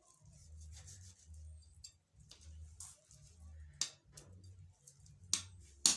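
A few short, sharp scrapes and rustles from a knife and hands working on a raw chicken carcass, more frequent near the end, over a faint low rumble.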